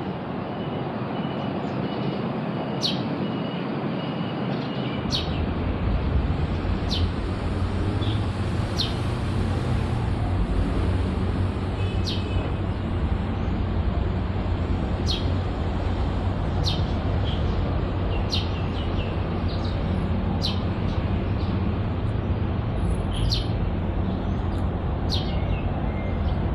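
Black-collared starling giving short, sharp chirps every second or two, over steady traffic noise whose low rumble grows louder about five seconds in.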